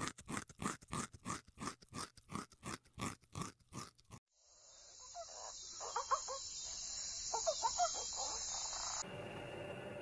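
Rhythmic crunching strokes, about four a second, for the first four seconds; then a frog croaking in short pulsed bursts over a steady high insect hiss.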